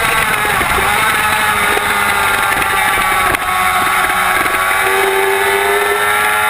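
2007 Yamaha YZF-R6's inline-four engine running at high revs through a race lap, with wind noise over the microphone. A brief sharp click with a short dip in level comes about three and a half seconds in.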